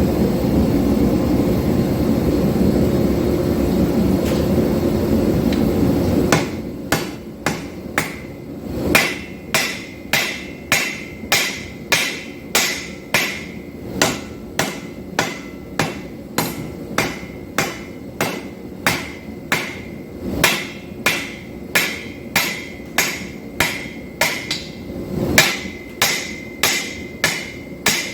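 A steady rushing noise from the forge running. About six seconds in, hand-hammer blows on hot 5160 steel over the anvil begin, about two strikes a second in an even rhythm, each with a short metallic ring.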